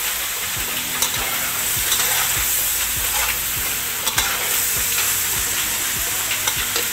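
Fish pieces and tempoyak (fermented durian paste) sizzling in a wok while a metal spatula stirs them, with a steady frying hiss and a short scrape or clink of the spatula on the pan about once a second.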